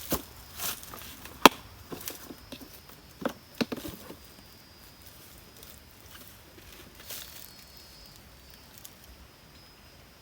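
A few sharp knocks and cracks over the first four seconds, the loudest about a second and a half in, then quiet with a faint steady high tone.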